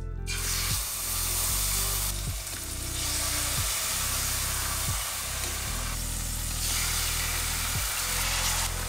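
Chicken breasts frying in hot olive oil: a steady sizzle that starts abruptly as the first piece goes into the pan. Background music with a steady low bass line plays underneath.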